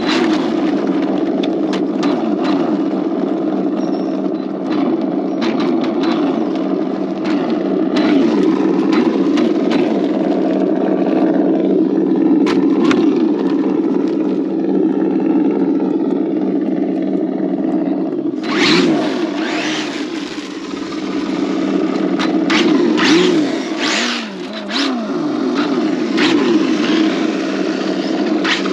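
Battery-electric (4S LiPo) 1/8-scale RC on-road car running, its motor and drivetrain whine wavering up and down with the throttle. From about two-thirds of the way through, gritty scrapes and tyre noise join it.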